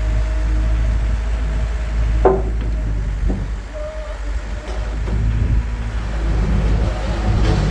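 Perkins diesel engine of a Zeppelin ZK32 skid steer loader running steadily, with a brief sharp sound about two seconds in. The engine drops back a little in the middle and picks up again near the end.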